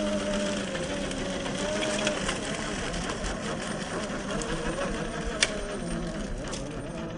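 RC crawler's 45T brushed 540 electric motor and geared drivetrain whining, its pitch wavering up and down with the throttle, with scattered light ticks and one sharp click about five and a half seconds in.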